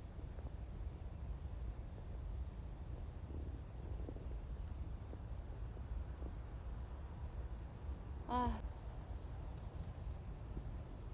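Steady high-pitched insect chorus, typical of crickets, with a low rumble underneath. About eight seconds in comes one brief wavering call that rises and falls in pitch.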